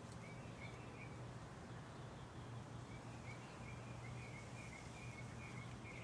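Birds chirping in quick runs of short, repeated notes, once near the start and again through the second half. The chirping is faint over a steady low hum.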